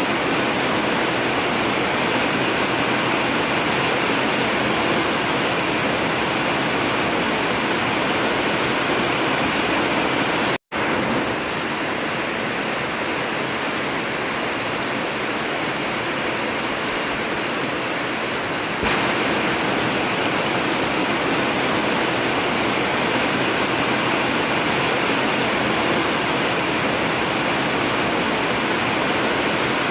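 Heavy rain pouring steadily on an old zinc sheet-metal roof, a dense even hiss. It cuts out for an instant about ten seconds in and shifts slightly in tone a little past halfway, where the recording is spliced.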